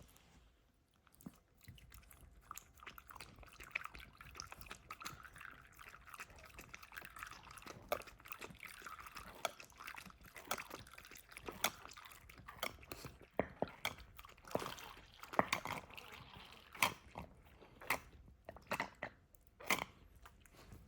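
A dog chewing and crunching food, with many irregular sharp crunches that come thicker and louder in the second half.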